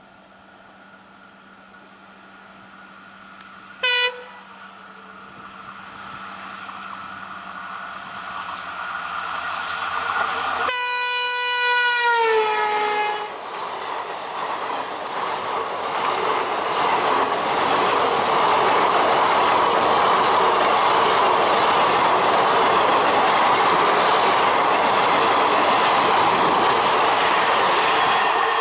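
WDP 4D diesel-electric locomotive approaching and passing with a train: a short horn toot about four seconds in, then a longer horn blast that drops in pitch at its end. The sound grows steadily louder, and for the second half it is a loud, steady humming of the locomotive and the rush of the coaches going by.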